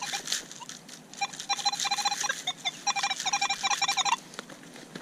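Metal detector beeping in quick runs of short, pitched electronic tones as it sounds off over a buried target, mixed with scraping and crunching clicks. The beeps stop a little after four seconds in.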